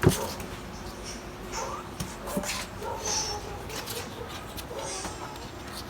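A sharp knock at the start, then faint short kitten mews and light scuffling in a small room.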